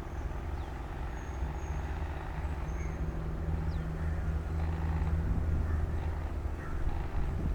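Diesel-electric locomotive engine running steadily with a low, even rumble; a held hum joins it for a few seconds in the middle.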